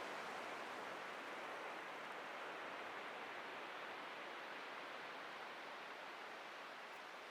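Atlantic surf washing on a beach: a steady, faint hiss of breaking and receding water that slowly fades.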